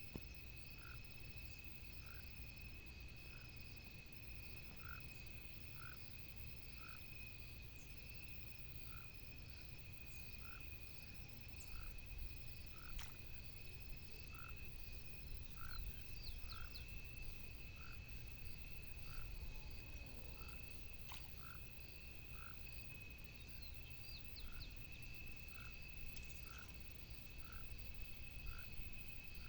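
Frogs calling at the waterside, short notes repeated about once a second, over a steady high insect drone and faster pulsed chirping.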